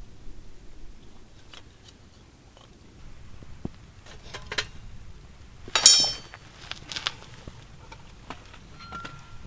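Camp cookware being handled: scattered small knocks and clinks of metal and glass. The loudest is a sharp ringing clink about six seconds in.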